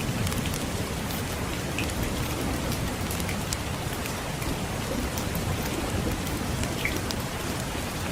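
Steady rain falling on a surface, with scattered sharp crackles of a wood fire and a low rumble of distant thunder underneath.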